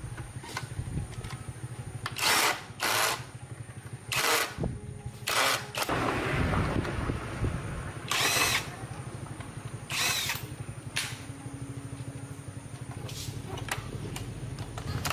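A steady low mechanical drone with about six short, loud hissing bursts, each under a second, spread through the first ten seconds.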